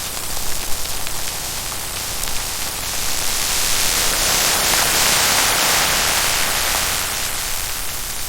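Heavy rain falling as a steady dense hiss with faint patters, swelling a little louder midway.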